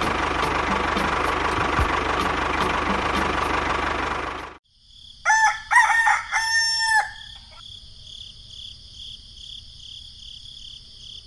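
A small motor running with a steady noisy sound and faint regular ticking, which cuts off abruptly about four and a half seconds in. Then a rooster crows once, a few short notes running into a long held one, followed by a faint steady high-pitched pulsing buzz.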